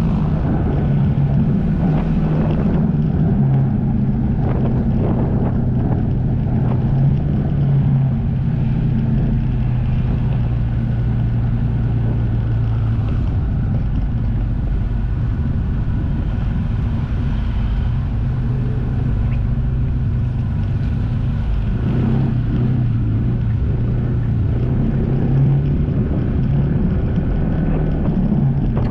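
Jet ski engine running steadily under way, a constant low engine hum over a rumble of wind and water.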